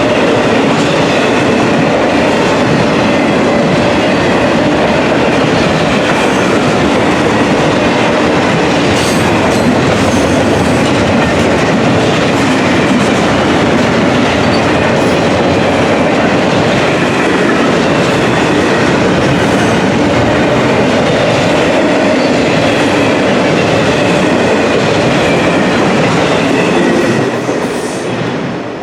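Freight cars of an intermodal container train rolling past: a steady loud rumble of steel wheels on rail, with clickety-clack over the rail joints and a faint wheel squeal. The noise starts to drop off near the end.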